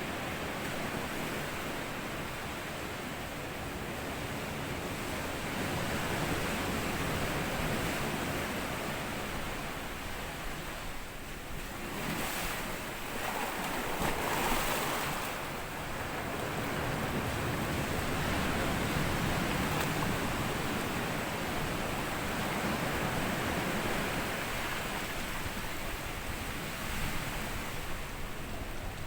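Sea waves washing up a sandy beach and drawing back: a continuous rush that swells and ebbs, with the loudest wave breaking about halfway through.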